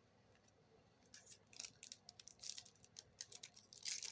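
Faint rustling and crinkling of trading-card booster packs and cards being handled, with short irregular clicks and slides that start about a second in.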